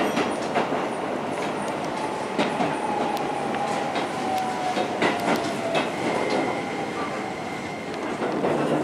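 Keisei line commuter train running, heard from inside a car: steady wheel-on-rail rumble with scattered sharp clicks over rail joints and points, and a faint whine that falls slowly in pitch in the middle as the train slows through the station.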